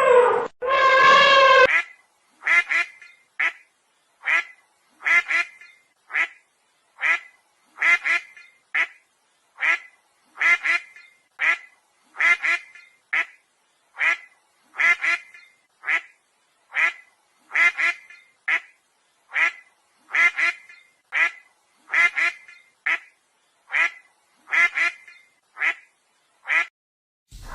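A duck quacking over and over at a steady pace, a little more than one quack a second. A short pitched call with a falling tone comes first.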